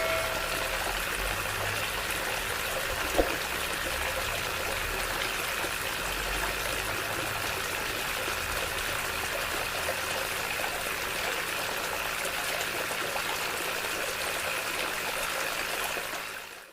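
Water running steadily from a small homemade DC-motor water pump, with a single click about three seconds in; the sound fades out near the end.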